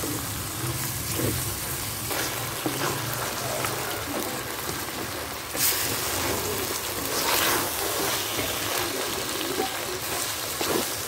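Soaked mash (urad) dal sizzling as it fries in oil and masala in a clay pot, stirred with a wooden spoon that scrapes through the grains, louder for a moment about halfway through.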